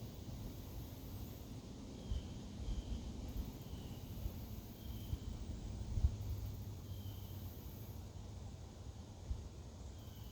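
Outdoor nature ambience: very high insect trilling that comes and goes in stretches of a second or two, several short high chirps, and a steady low rumble with a few soft knocks.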